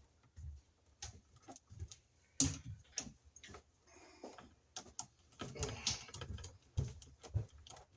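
Irregular small clicks and taps of electrical wires and hand tools being handled while wiring an outlet, with one sharper click about two and a half seconds in.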